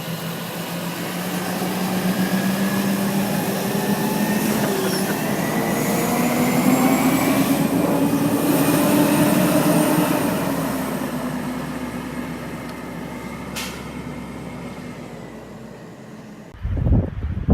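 Garbage truck's engine running as the truck drives by, growing louder with its pitch rising, then falling and fading away. A single sharp knock sounds about two-thirds of the way through, and gusts of wind buffet the microphone near the end.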